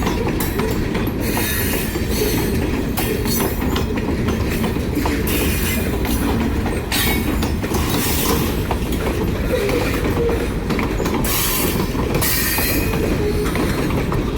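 Kiamichi Railroad freight cars rolling past at close range, a continuous rumble of steel wheels on rail with repeated clacks as the wheels cross rail joints.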